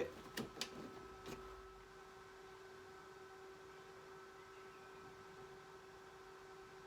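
Thetford fridge ventilator fan running with its grill covers on: a faint, steady hum. A few small clicks come in the first second and a half.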